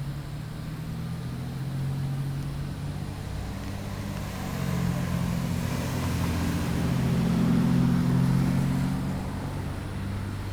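A passing vehicle's engine: a low, steady hum that grows louder, peaks about seven to eight seconds in, then fades.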